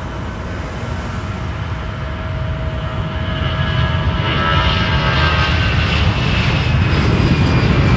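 Jet airliner's engines running as it passes close by, the noise growing steadily louder, with a high whistle coming in about halfway through over the low rumble.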